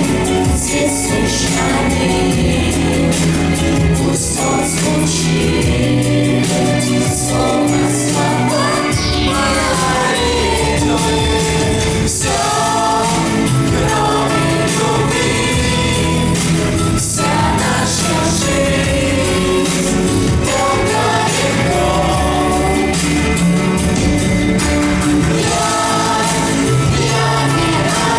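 A song performed by a group of singers over a loud instrumental accompaniment with a steady bass.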